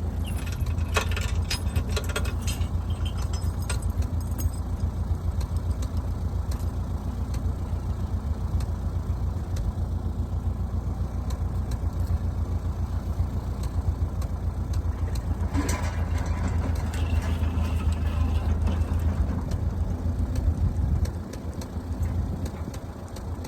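Stick (arc) welding: a steady low buzz from the welder with faint crackle, sharper crackling in the first few seconds and again about 16 s in. The buzz drops away about 21 s in, as the arc is broken.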